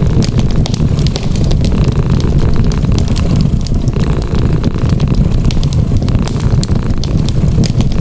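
Wood fire crackling with frequent sharp pops, over a dense steady low rumble that carries a cat's purring.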